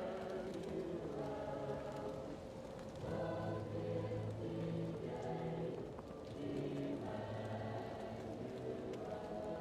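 Choir singing slow, held chords, muffled as if heard from another room, with new phrases coming in about three and seven seconds in. Faint crackling of a wood fire underneath.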